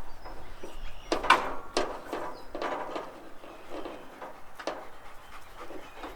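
Irregular knocks, clunks and rattles of parts being handled on a band sawmill while its blade is changed, the loudest just over a second in.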